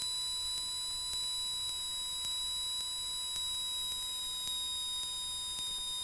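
Steady electrical whine on a light aircraft's intercom audio feed: several high, thin tones held together, one of them sliding slowly lower, with hardly any engine noise coming through.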